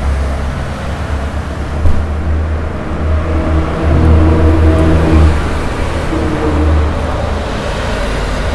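Chewing a mouthful of crispy chicken submarine close to a clip-on microphone, over a low rumble of road traffic that swells in the middle and eases toward the end.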